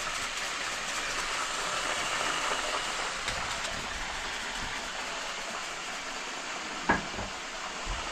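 Steady sizzle of fish frying in a pot of hot oil, with a single knock about seven seconds in.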